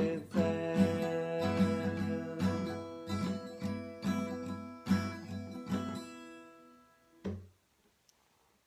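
Acoustic guitar strummed in an even rhythm as a song's closing chords, the strums growing steadily quieter, with one last strum about seven seconds in.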